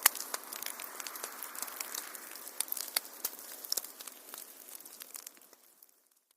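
Fireplace fire crackling, with frequent sharp pops over a steady hiss, fading out to silence near the end.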